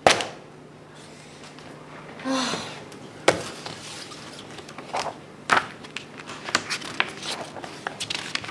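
Papers and objects being handled at a wooden office desk: a sharp knock at the start, then a run of irregular clicks, taps and rustles. A short breathy huff from the woman about two seconds in.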